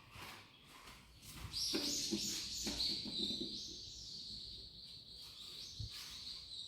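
High-pitched electronic tone from a 1997 LG MGS elevator, starting about two seconds in and stepping between a few pitches, over a low rumble that fades after a couple of seconds. This is the chime that the title suspects is an early LVP-type chime fitted to this MGS elevator.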